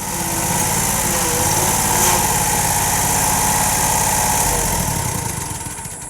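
Lawn mower engine running steadily, then dying away over the last second or so.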